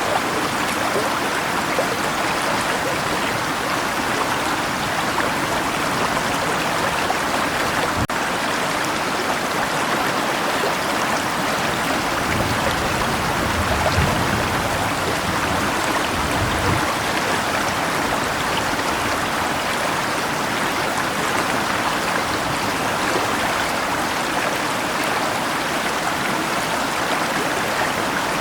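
Steady rushing of a flowing river. A faint low rumble, distant thunder, rises and fades around the middle.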